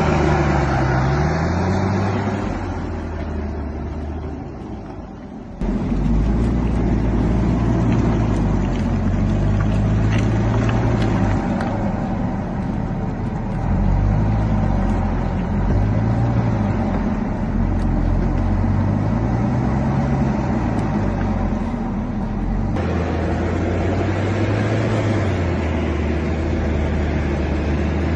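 Heavy vehicle engine running and revving up and down over rough ground, its pitch rising and falling every few seconds. The sound changes abruptly twice, about five and a half seconds in and again near the end.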